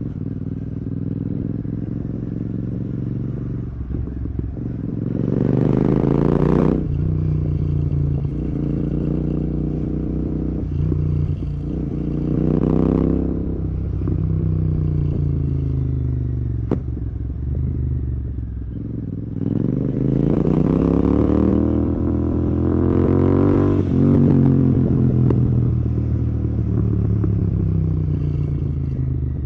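Royal Enfield Continental GT 650's 648 cc parallel-twin through Red Rooster aftermarket exhausts, revving up hard through the gears. The revs climb and drop with each gear change, four times, then wind down as the bike slows on engine braking near the end.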